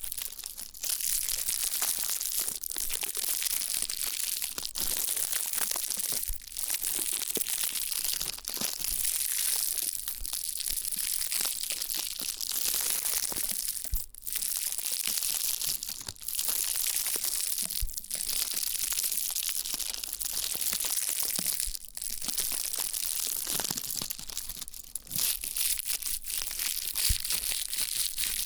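Crunchy scratching and rubbing right on the ears of a KU100 binaural dummy-head microphone, in strokes of about two seconds each separated by brief pauses.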